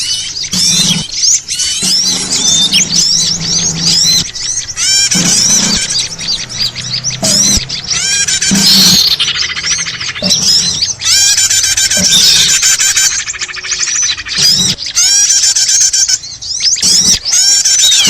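Dense chorus of many small songbirds' chirps, trills and twittering calls layered over one another, with rapid repeated up-and-down sweeps. It is a lure recording meant to draw small birds.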